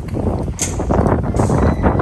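Wind buffeting the microphone, a loud uneven rumble.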